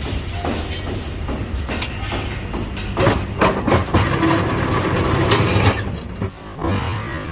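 Electric rebar bending machine running, its motor and gearbox droning with metal clanks, loudest from about three to nearly six seconds in, while it bends a steel reinforcing bar.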